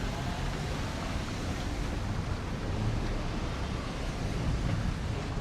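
Steady city street traffic noise, an even rushing sound with a strong low rumble and no distinct events.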